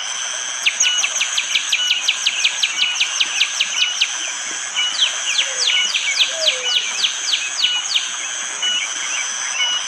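Prenjak jali bird singing its burst song: rapid runs of sharp, falling notes, about six a second, in two runs of some three seconds each, over a steady high insect drone.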